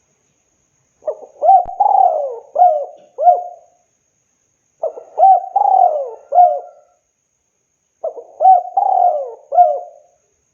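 Spotted dove (tekukur) cooing: three song phrases of four or five coos each, a few seconds apart.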